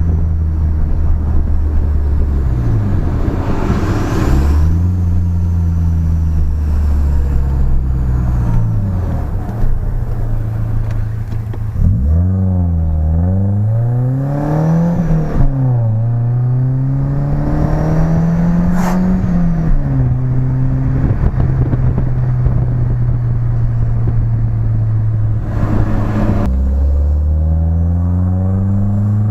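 BMW E30 engine and new exhaust under acceleration: the revs climb and fall back several times as it shifts through the gears, hold steady for a few seconds past the middle, then climb again near the end.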